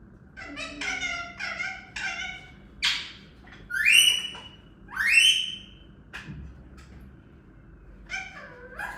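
A parrot chattering in short calls, then giving three loud squawks about a second apart, the last two rising in pitch, with softer calls near the end.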